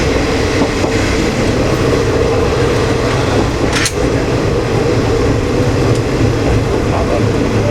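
KiHa 20 diesel railcar running along the line: steady diesel engine hum and wheels on the rails, heard from inside the cab. A single sharp click about four seconds in.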